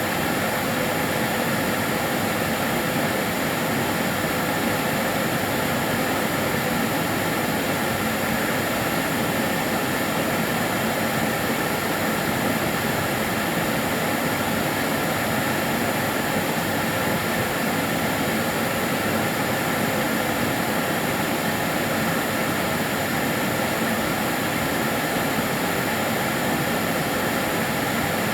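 Karcher DS 6 Premium water-filter vacuum cleaner running continuously, a steady whooshing drone with a faint high whine that holds an even level throughout.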